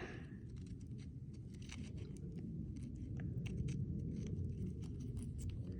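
Faint handling sounds, small scattered clicks and scrapes of broken figurine pieces being moved, over a steady low rumble on the microphone.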